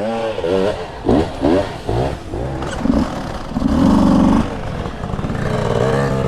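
Dirt bike engine revving in several short rises and falls, then held louder at higher revs for about a second around four seconds in.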